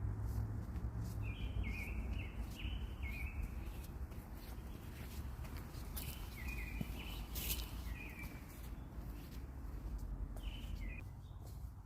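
A songbird calling in runs of short chirps, over a steady low rumble of outdoor background noise, with a few brief clicks in the middle.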